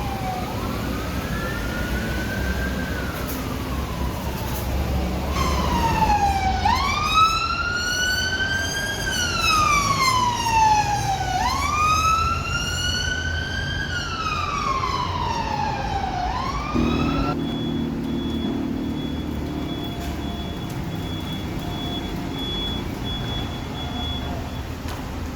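Wailing emergency siren of a Honda ST1300P paramedic motorcycle, slowly rising and falling about once every five seconds. It is faint at first, gets much louder about five seconds in, and cuts off about two-thirds of the way through, leaving engine and traffic noise.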